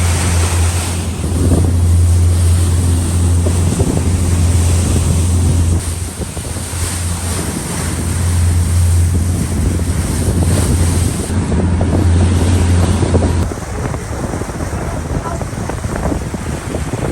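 Wind buffeting the microphone and sea rushing past a fast ferry under way in rough water, over a steady low engine drone. About 13 seconds in, the drone and much of the hiss drop away suddenly.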